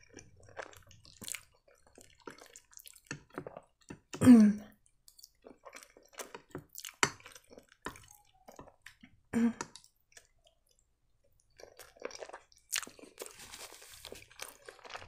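Close-miked chewing of soft penne pasta in creamy Alfredo sauce, with wet mouth sounds and light fork clicks. A short hummed vocal sound with a falling pitch comes about four seconds in, and a soft rustle near the end.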